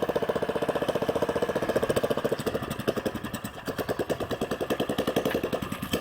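Predator 420cc single-cylinder engine of a homemade four-wheeled motorcycle running on a test drive, its even firing pulses easing off a little in the middle and then building again.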